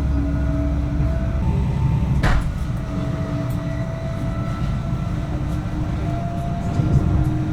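Electric passenger train running: a steady low rumble with whining tones that shift in pitch in steps. There is one sharp click about two seconds in.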